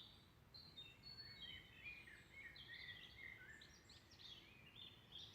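Faint birdsong: several birds giving short whistled phrases and chirps over a low, steady background hum.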